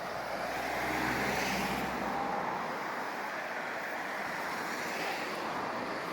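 Road traffic: a vehicle passes with a rush of tyre noise and a low engine rumble that swells about a second in and fades, leaving a steady hiss of traffic.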